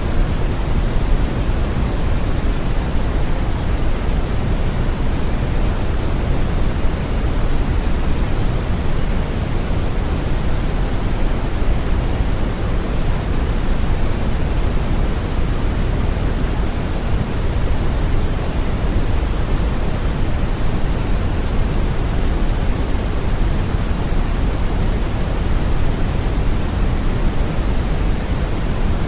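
Steady brown noise: an even, deep rushing hiss weighted to the low end, with no changes or events.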